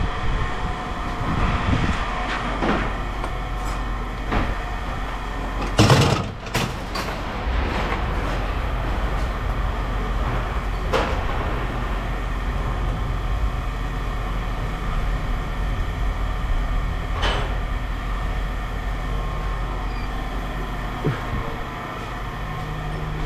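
Steady low mechanical hum, like an engine running, with scattered knocks and clanks of scrap metal being handled; the loudest clank comes about six seconds in.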